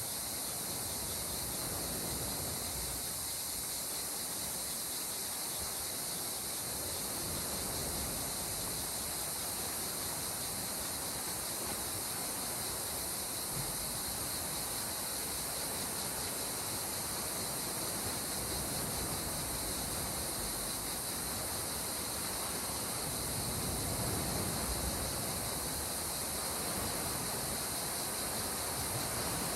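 Calm sea water washing gently against the shore, a steady hiss with slow low swells, the biggest about three-quarters of the way in. A steady high-pitched hiss runs over it.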